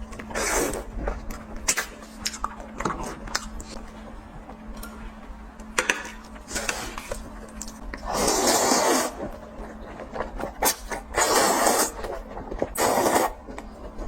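Close-miked eating sounds: chewing with many small wet clicks and smacks, and three louder, longer noisy stretches about 8, 11 and 13 seconds in.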